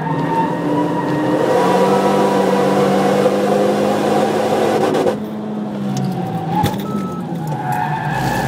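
Renault Mégane RS250's turbocharged four-cylinder engine heard from inside the cabin, pulling hard with the revs rising and then holding, over tyre and road noise. About five seconds in the driver lifts off and the engine note falls away, with a sharp click shortly after, before the engine picks up again near the end.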